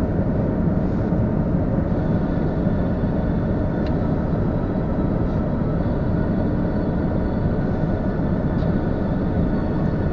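Car running, a steady low rumble without breaks.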